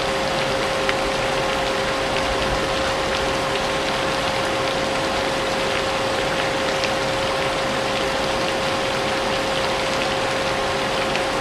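Vacuum cleaner running steadily with a constant motor hum, mixed with falling rain whose drops tick faintly through the wash of noise.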